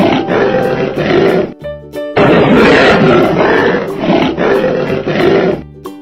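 Lion roaring twice in long, rough roars: the first trails off about a second and a half in, and the second starts about two seconds in and stops near the end. Light music plays in the gaps.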